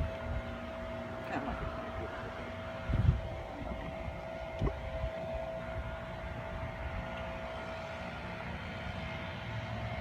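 A steady mechanical hum from a small motor, with wind buffeting the microphone and a sharp thump about three seconds in.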